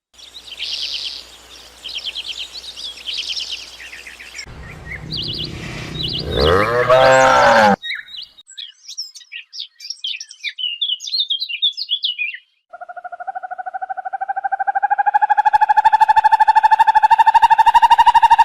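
A string of different animal calls: birds chirping and twittering, broken by a lower sweeping sound, then one long, buzzy, slightly rising call held for about six seconds.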